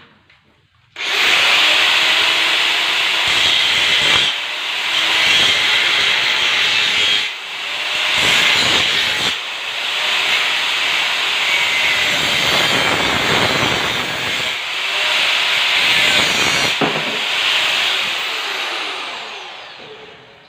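Angle grinder grinding or cutting steel tube: it starts abruptly, runs steadily with a harsh rasp and a few short dips in load, then spins down near the end.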